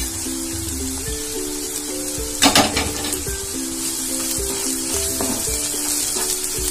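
Chicken pieces, onions and green chillies sizzling in hot oil in a nonstick pan while a wooden spatula stirs them, with one louder knock or scrape about two and a half seconds in. Background music with a slow run of steady notes plays throughout.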